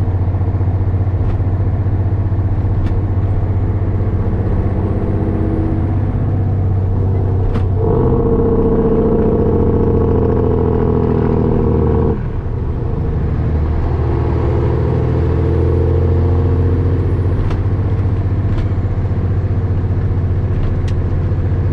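Diesel engine of a Peterbilt 362 cabover truck running steadily on the road. About eight seconds in, the engine note grows louder and fuller for roughly four seconds, then drops off suddenly, as when easing off or changing gear.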